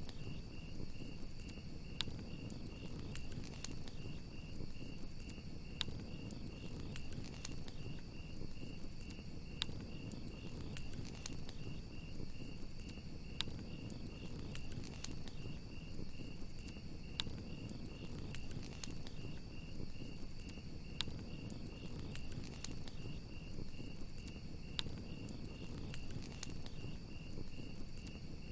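Crickets chirping in a continuous, fast-pulsing high trill, over a crackling campfire with sharp pops every second or two and a low rumble from the flames.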